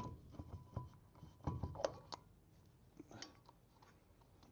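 Light clicks and metallic clinks of small steel hub parts being handled and fitted, busiest about a second and a half in, a few of them ringing briefly.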